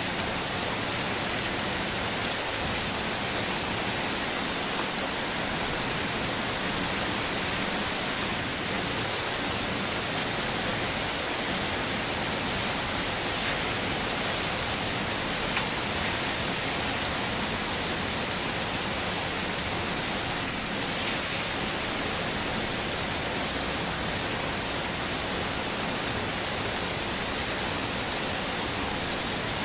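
Heavy rain falling steadily, a dense, even hiss with two brief dips in the high end partway through.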